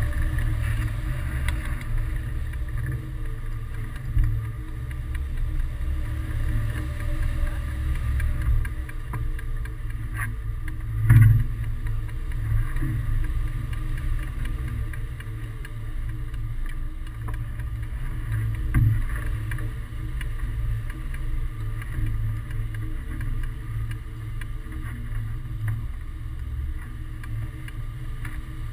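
Wind rushing over the microphone of a hang glider in flight: a steady low rumble with a faint hiss above it. Louder buffets come about 4, 11 and 19 seconds in.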